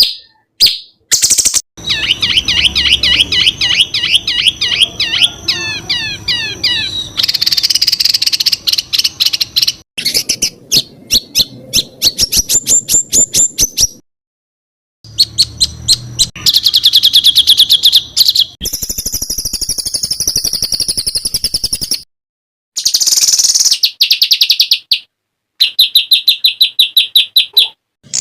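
Songs of several songbirds spliced one after another: fast, sharp, high-pitched trills and rapid-fire bursts of repeated notes ('tembakan'), mixed with sweeping chirps. Each clip cuts off abruptly, sometimes with a brief silence before the next.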